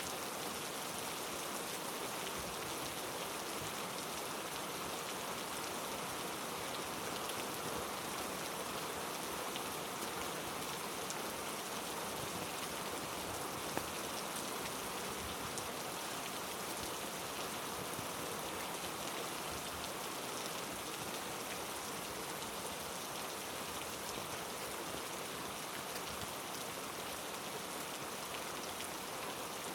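Heavy rain falling steadily on rainforest foliage, an even, unbroken hiss of drops, with one faint tick about halfway through.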